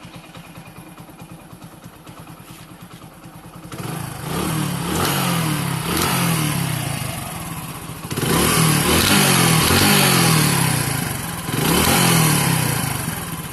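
Hero Honda 100cc single-cylinder motorcycle engine idling, then revved up several times, with a 'katad katad' knocking rattle from the clutch side as it accelerates. The knock is caused by a loose nut on the crankshaft flywheel/balancer.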